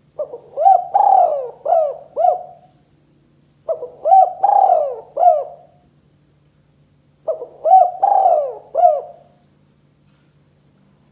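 Spotted dove (tekukur) cooing: three phrases of several rolling coos each, a second or so apart. This is the 'kuk 2' song type used as a lure call to attract other spotted doves.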